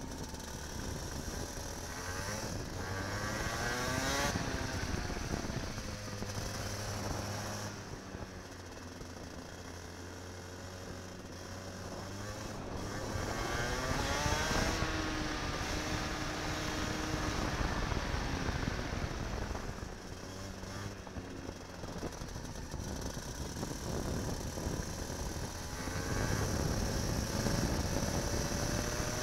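Kart engine heard close up from the onboard camera. It revs up in pitch three times, about 2 s, 13 s and 26 s in, as it accelerates out of corners, and drops back as it lifts off between.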